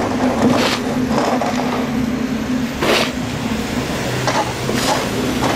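Street traffic with a vehicle engine running steadily in a low hum, and a few brief swells of noise over it.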